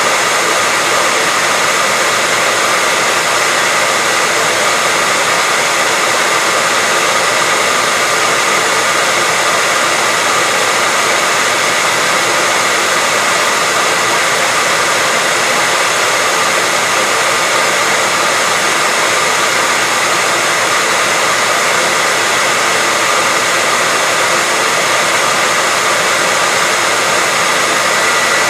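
Hair dryer running steadily: a constant rush of blown air with a thin, steady high whine on top.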